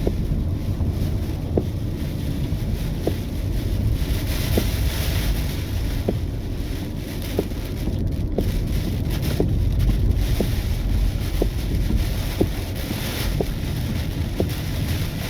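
Steady road and wind rumble of a moving car heard from inside the cabin, with a soft tick repeating about once a second.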